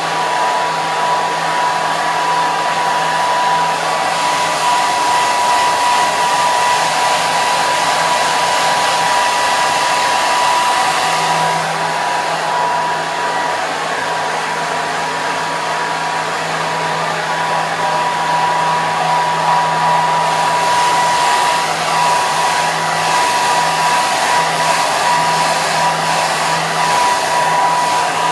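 Hair dryer running steadily, a constant rush of air over a steady motor whine.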